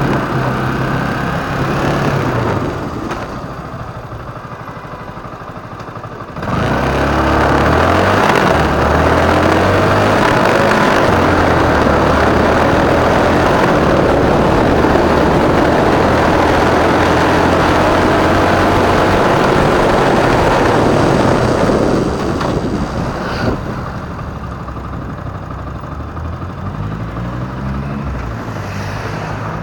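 Motorcycle being ridden in traffic: the engine runs quieter for a few seconds, pulls away loudly about six seconds in with a dense rush of engine and road noise for about fifteen seconds, then drops back to quieter running, with a couple of short revs near the end.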